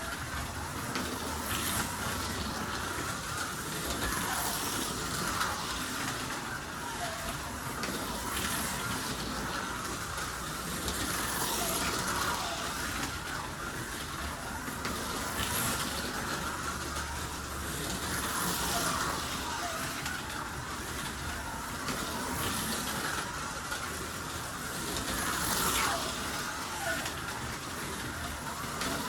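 Scalextric slot cars running round the track, their small electric motors whining with a hiss from the track, the sound swelling and fading every several seconds as the cars come round.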